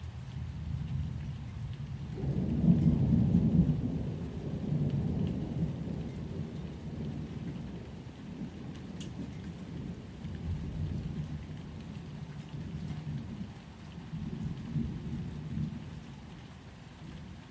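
Rain with a low rolling rumble of thunder that swells about two seconds in, then ebbs and rises again more softly.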